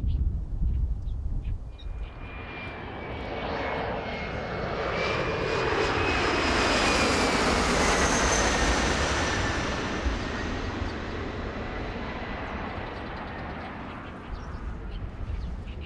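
Airliner on landing approach passing low overhead. Its engine noise swells to a peak about halfway through and then fades, and a whining tone drops in pitch as it goes by.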